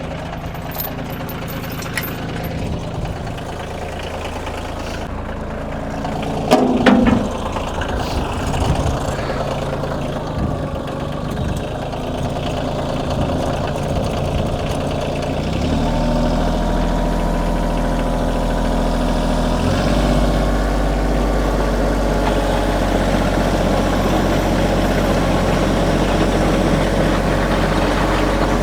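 Kioti compact tractor's diesel engine running steadily as it drags the driveway. There is a brief louder noise about seven seconds in, and the engine note deepens and grows louder a little past halfway.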